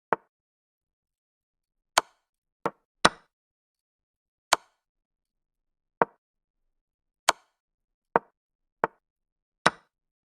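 Online chess move sounds: about ten short, sharp wooden-piece clicks at uneven intervals, one for each move played by either side, a few in quick succession.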